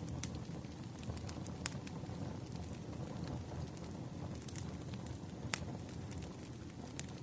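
Wood fire crackling: a steady low rumble of burning logs with irregular sharp pops and snaps, two of them louder than the rest.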